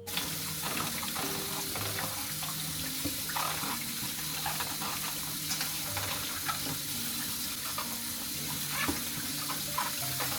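Tap water running steadily into a sink, with a few light knocks. Soft guitar music continues underneath.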